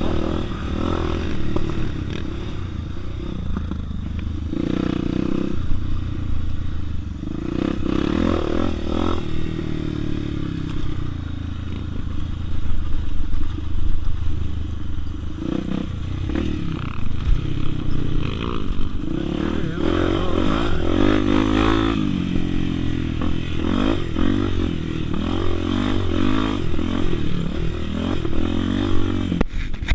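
Honda Tornado's 250 cc single-cylinder four-stroke engine, ridden off-road. The revs climb and fall again and again as the rider works the throttle, with rattling and clatter underneath.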